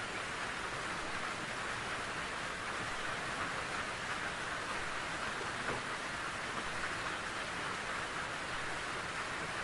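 Steady rain falling in a forest, an even hiss of many drops with no let-up.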